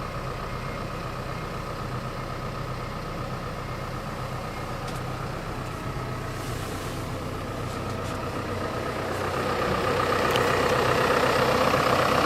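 Auxiliary sub-engine of a Hino Dutro water sprinkler truck running steadily. About nine seconds in, it speeds up and grows louder.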